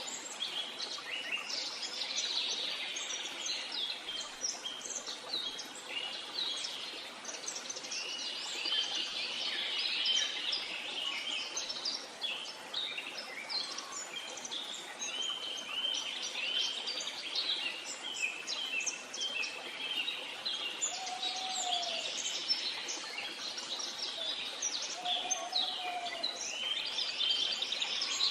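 A chorus of many birds chirping and singing together, dense and overlapping, over a steady background hiss. A lower whistled call joins twice in the second half.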